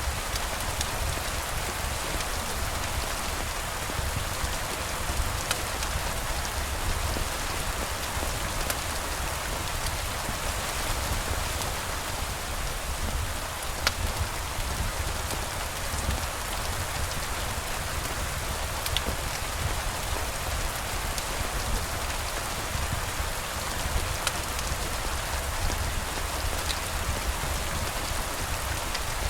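Steady rain falling, an even hiss of rain on surfaces, with a few faint sharp ticks scattered through.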